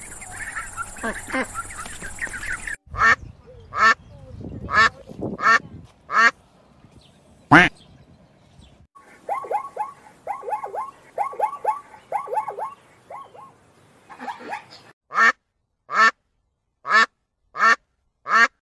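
A run of animal calls from several cut-together clips: ducklings' high calls, then loud single calls a second or so apart, then a quick run of short falling yelps, and finally a domestic goose honking about once a second, five times.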